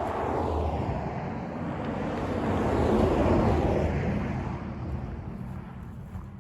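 A road vehicle passing by, its engine and tyre noise swelling to a peak about three seconds in and then fading away.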